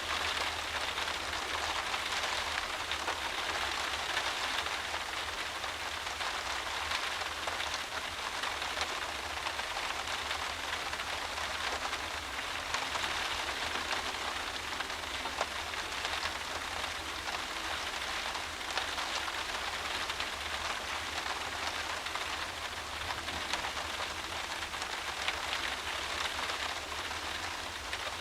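Heavy driving rain beating against a windowpane, heard from inside: a dense, steady patter of drops hitting the glass, with a low rumble underneath.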